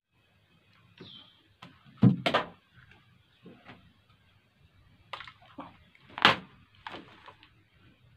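Handling knocks and clicks of parts and tools: a loud double knock about two seconds in and a sharp knock about six seconds in, with lighter clicks between.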